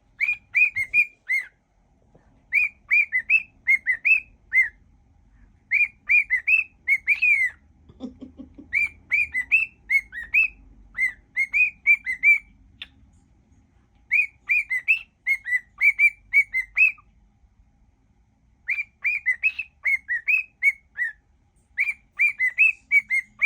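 Cockatiel whistling a song in short repeated phrases of quick, chirpy rising-and-falling notes, with brief pauses between phrases and a longer pause about three-quarters of the way through.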